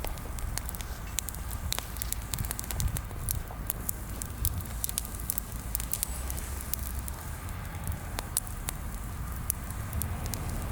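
Bonfire of freshly pruned green branches crackling, with many scattered sharp pops over a steady low rumble. The fire burns weakly because much of the wood is green.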